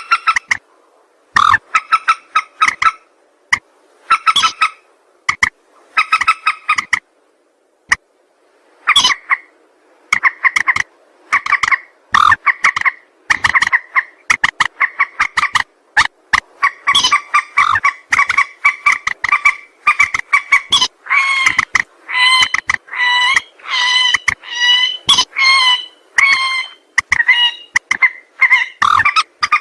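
Mandar sawah rail calling: series of short, repeated clucking notes in bursts. After a short pause the bursts come closer together, running almost without a break over the second half.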